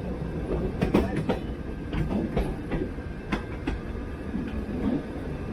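Vintage wooden electric tram running along its rails, heard from aboard: a steady rumble with irregular clacks and knocks from the wheels and car body, several in the first few seconds.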